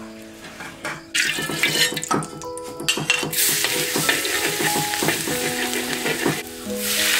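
Chopped garlic sizzling hard in hot oil in a wok, with a metal ladle scraping and clinking against the pan as it is stirred. The sizzle starts about a second in, dips briefly near the end, then swells again.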